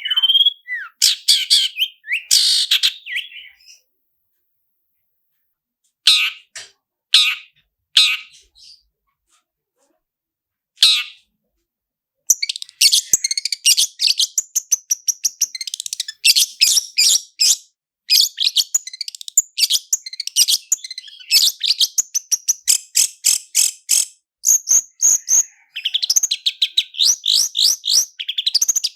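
Long-tailed shrike (cendet) singing: a few loud calls, a silent gap of about two seconds, scattered short notes, then from about twelve seconds in a long run of fast, tightly packed repeated notes, the rapid rolling trill that cendet keepers call roll speed.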